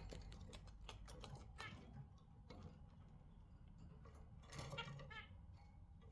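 Pet budgerigars in a cage: faint, scattered clicks and taps, with a few short chirps about three-quarters of the way through.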